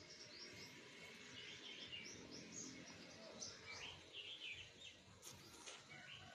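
Faint birds chirping over a low background hiss, with one brief sharp click about five seconds in.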